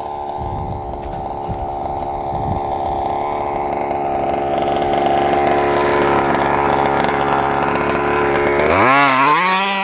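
Small two-stroke gas engine of a 1/5-scale RC truck, a 30–32cc Robin, running at a steady speed, then revving up sharply near the end.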